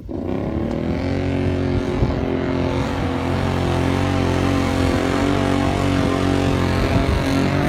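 Kawasaki Teryx4 side-by-side's V-twin engine running hard under throttle, rising in pitch just after the start, then holding fairly steady with slight wavering.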